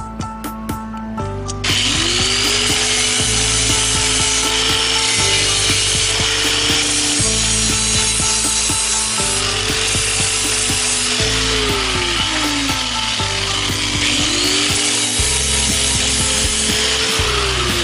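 A handheld power tool starts about two seconds in and rasps against a surface. Its motor pitch rises as it spins up, holds, falls away around the middle, then spins up again and winds down near the end. Background music with steady chords plays underneath.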